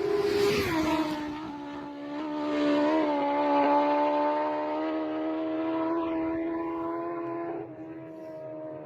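Racing motorcycle engine at high revs, screaming past with a sudden drop in pitch about half a second in. A steady high engine note follows and fades somewhat near the end.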